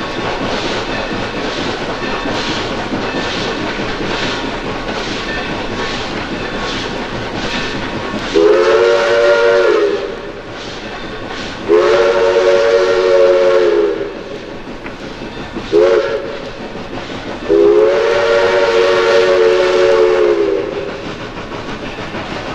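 Train sound effect: wheels clicking over the rail joints in a steady rhythm, then the train whistle sounds a chord of several tones in four blasts, long, long, short, long, the grade-crossing signal. The whistle blasts are the loudest part.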